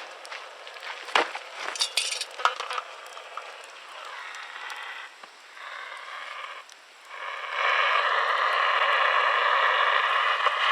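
A few sharp cracks and clinks, then a radio being tuned: hissing static that cuts in and out, and about seven seconds in a loud, steady station signal comes in.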